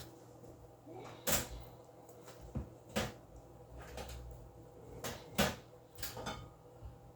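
Several separate knocks and clunks of things being handled in a kitchen, a second or two apart, the loudest about a second, three seconds and five seconds in.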